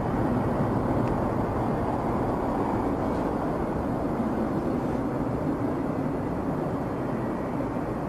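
Steady engine and airflow noise inside a Boeing 777's flight deck during the climb after takeoff.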